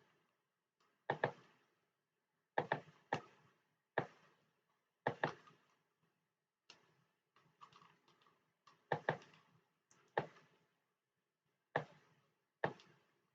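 Sharp clicks at irregular intervals, about one a second, some coming in quick pairs, from computer input while drawing digitally.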